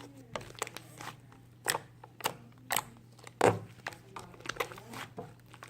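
Irregular crinkles and clicks of things being handled close to the microphone, over a steady low hum; the loudest click comes about three and a half seconds in.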